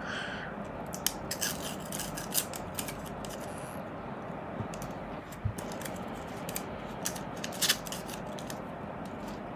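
A MacBook charger and its plastic wrapping being handled close up: scattered clicks, scratches and rubbing over a steady background hiss.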